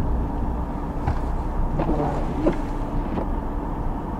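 Steady low rumble of a running vehicle, with a few faint, brief sounds about one and two seconds in.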